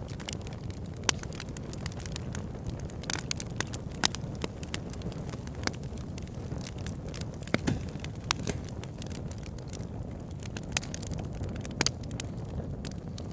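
Wood fire burning in a fireplace: a steady low rumble of flames with frequent sharp crackles and pops of burning firewood, a few of them louder than the rest.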